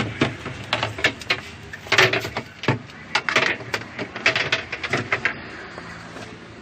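A quick, irregular run of clicks and knocks, plastic parts of a top-loading washing machine being handled, thinning out after about five seconds.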